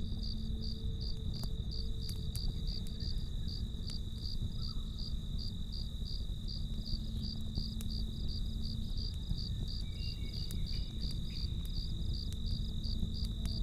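Crickets chirping in a steady, fast rhythm of about four or five chirps a second over a constant high insect trill, layered over a campfire's low rumble with an occasional crackle or pop.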